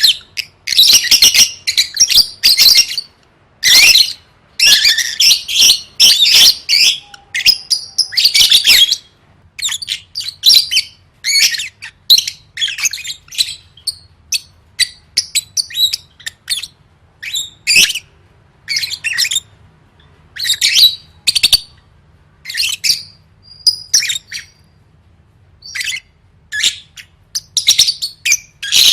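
Lovebird chattering in rapid, high, sharp chirps, packed into dense runs for the first nine seconds or so, then coming as separate chirps and short bursts.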